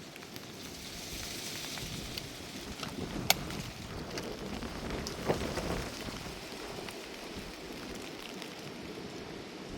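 Steady rain with wind buffeting the microphone, broken by two sharp knocks about two seconds apart.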